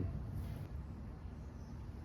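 Steady faint background hiss with a low hum: room tone, with no distinct event.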